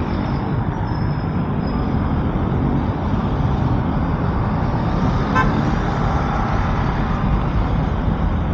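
Riding noise on a Honda ADV150 scooter: steady wind rush and road noise, with the engine running underneath.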